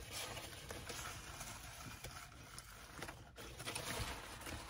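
Quiet chewing of a fried chicken sandwich: faint mouth sounds with a few soft irregular clicks.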